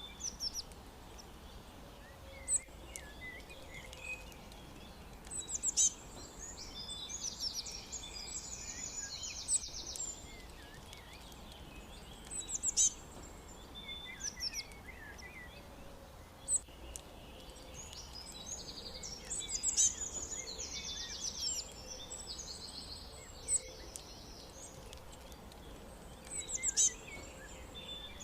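Songbirds chirping: short sharp chirps every few seconds, with two longer rapid trilling phrases, over a steady low background noise.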